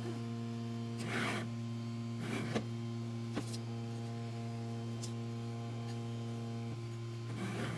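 Steady electrical mains hum from the powered-on 3D printer setup, with three brief rubbing swishes of a rag wiping the printer's steel guide rods: about a second in, a little later, and near the end.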